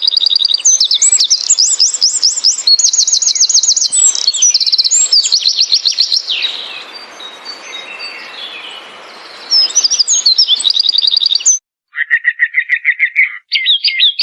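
Songbirds singing: fast runs of high, repeated chirps, with a quieter stretch in the middle. Near the end the sound cuts out for a moment and a different bird starts a lower, rapid trill.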